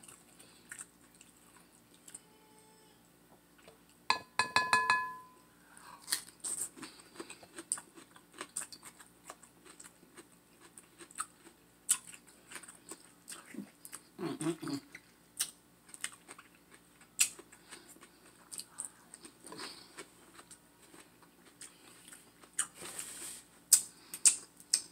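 Close-miked crunchy chewing and biting of a raw cucumber slice dipped in sauce, with many small wet mouth clicks. A brief louder ringing note sounds about four seconds in.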